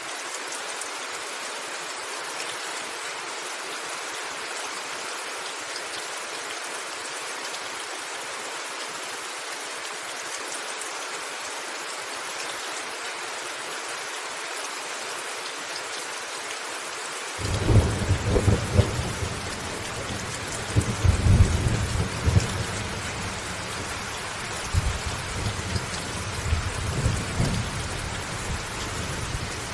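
Steady rain falling, an even hiss. About two-thirds of the way in, a low rumble of thunder starts suddenly and rolls on in several swells.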